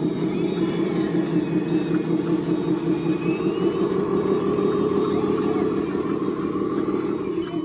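Steady running of a radio-controlled construction model's motor and gear drive, a dense fast-pulsing hum that holds level throughout.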